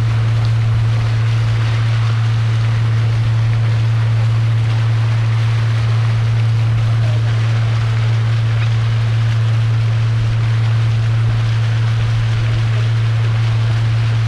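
Boat motor running at a steady speed: a constant low drone under a steady hiss of wind and water.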